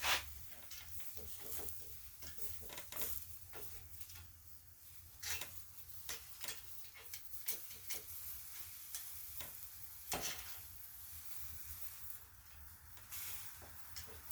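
Charcoal grill with quail on it crackling and sizzling: irregular small pops and ticks throughout, with a louder snap right at the start and another about ten seconds in.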